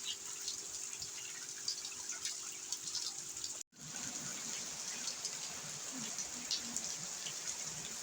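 Heavy rain pouring steadily, broken by a moment of silence at a cut about three and a half seconds in.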